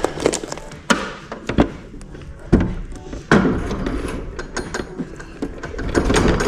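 A handful of sharp knocks and clunks as parts and tools are handled while fitting a garage door opener, over a busy background.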